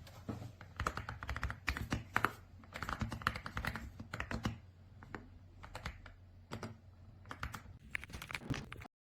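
EPOMAKER x Aula F75 gasket-mounted mechanical keyboard being typed on: quick runs of keystrokes with a thinner, quieter stretch a little past the middle.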